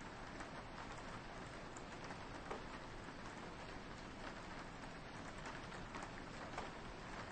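Steady light rain, a soft even hiss with scattered single drops ticking against a window.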